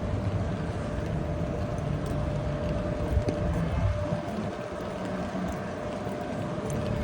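City street traffic on wet roads: a low rumble of passing vehicles with a steady hum running under it. The rumble eases about four seconds in.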